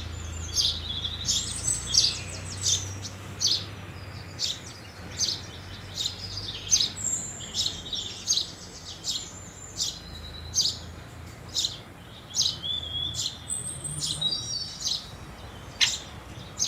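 House sparrows chirping: a busy run of short, sharp chirps from several birds, coming every half second or so, over a faint low hum.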